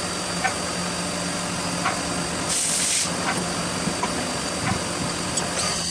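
CNC machine running, with a steady high whine and a low hum, faint intermittent clicks, and a short burst of hiss about two and a half seconds in.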